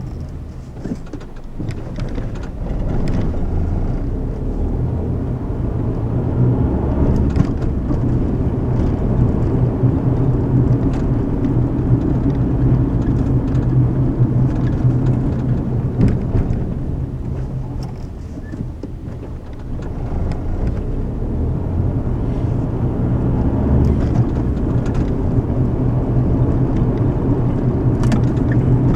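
Car interior driving noise: a steady low rumble of tyres and engine, easing off briefly about two-thirds of the way through and then building up again.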